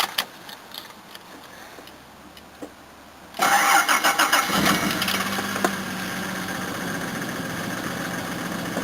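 Starter cranks the Jaguar XJ6's 4.2-litre straight-six about three and a half seconds in; the engine catches within about a second and settles into a steady idle.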